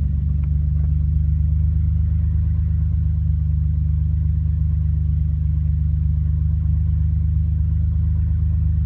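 Nissan Skyline GT-R R34's RB26DETT twin-turbo straight-six idling steadily with a low, even rumble.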